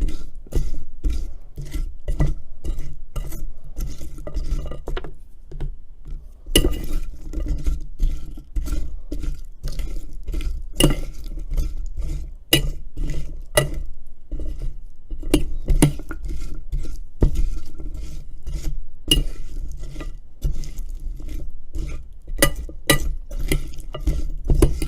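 A kitchen utensil clinking and scraping against a bowl in quick, irregular knocks while oiled, salted potato fries are tossed together.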